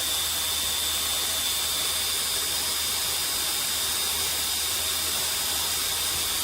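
Power sanding machine running steadily: an even hiss with a constant high whine and a low hum underneath.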